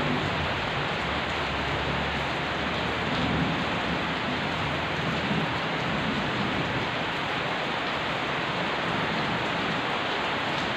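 Steady rain falling, an even dense hiss. A low rumble of thunder dies away about two seconds in.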